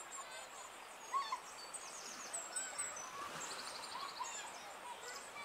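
Several small birds calling and chirping over faint outdoor background noise. There is a louder chirp about a second in and a quick trill about halfway through.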